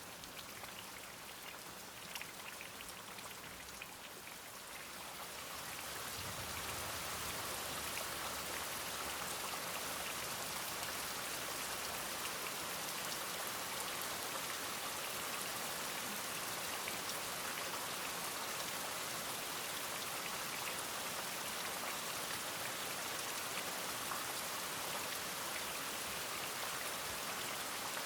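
Rain falling steadily, with single drops audible at first; about five seconds in it swells into a denser, even downpour that holds steady.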